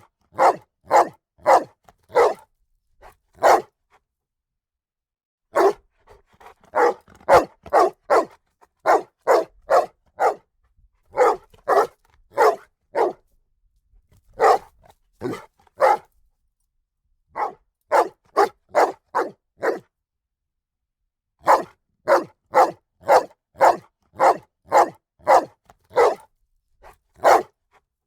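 A dog barking sharply and repeatedly, in quick runs of several barks about two a second, broken by short pauses of a second or two.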